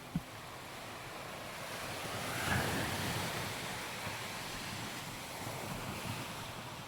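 Sea waves washing onto a sandy beach, one swelling and breaking about two and a half seconds in, with wind noise on the microphone. A brief thump just after the start.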